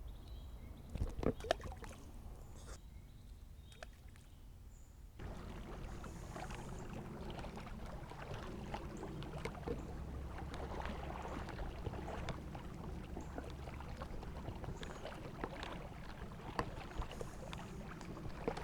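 Creek water splashing and lapping around a float tube as it moves downstream, with scattered small knocks and clicks; a short quieter stretch breaks off abruptly about five seconds in.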